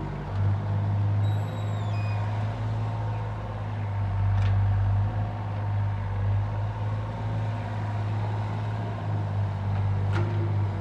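Heavy excavation machinery's engine running steadily with a low drone. A short high squeal falls in pitch about a second in, and there are a couple of sharp ticks later.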